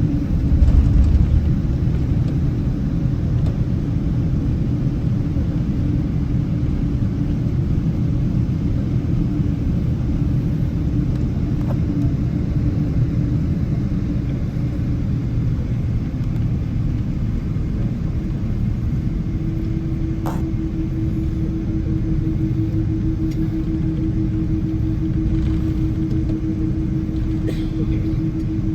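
Boeing 777 cabin noise, most likely during taxi: a steady low rumble from the engines and the aircraft rolling, with a louder low bump about a second in. A steady hum joins in about two-thirds of the way through.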